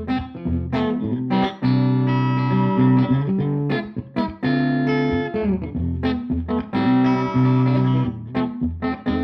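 Electric guitar played through a Tone King Gremlin tube amp on its rhythm channel at maximum gain, with the guitar's volume knob rolled down, picking single notes and letting chords ring out.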